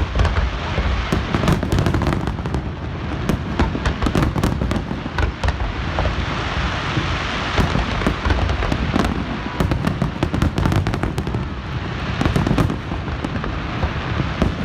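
Aerial fireworks shells bursting in quick succession, a dense, continuous run of bangs and crackles.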